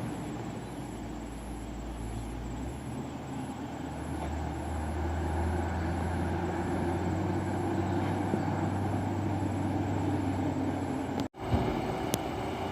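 Loaded dump truck's diesel engine running with a low rumble, growing louder over the first half as it comes by. The sound breaks off abruptly for a moment near the end, followed by a few sharp clicks.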